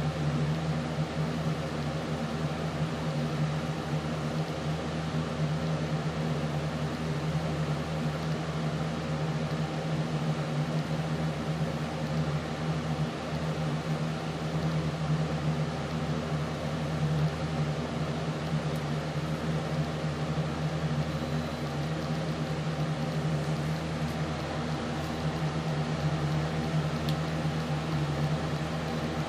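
Steady machine hum with a strong low tone, unchanging throughout.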